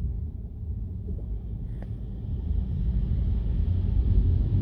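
Car driving, heard from inside the cabin: a steady low engine and road rumble that grows gradually louder, with one faint click about two seconds in.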